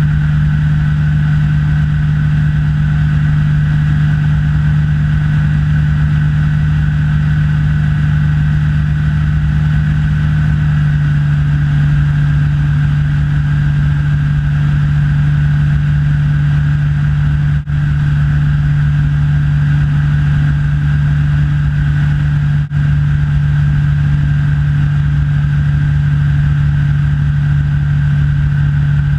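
Engine and propeller of a Rans S6 light aircraft running steadily, heard inside the cockpit. The pitch settles a little lower about a third of the way in, and the sound dips for an instant twice.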